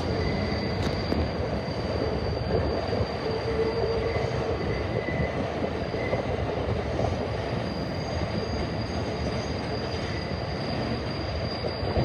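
New York City subway train moving along the track, its rumble carrying a steady high-pitched wheel squeal.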